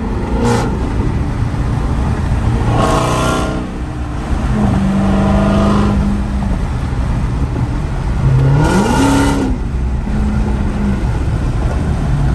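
Supercharged 6.2-litre Hemi V8 of a Dodge Challenger SRT Hellcat, heard from inside the cabin while driving. It runs at a steady note, with two surges of throttle, and its pitch rises in a short rev about two-thirds of the way through.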